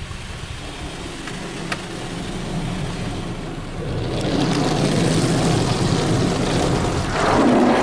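Sonny's automatic car wash tunnel equipment running, heard from inside a car riding the conveyor: a steady mechanical hum and rush that grows louder about halfway through and swells again near the end.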